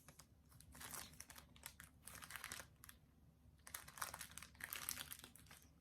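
Faint, irregular crinkling of small plastic packaging bags being handled while diamond painting tools are unpacked.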